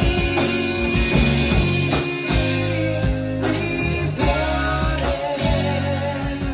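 A rock band playing: guitar over bass notes, with a steady drum beat.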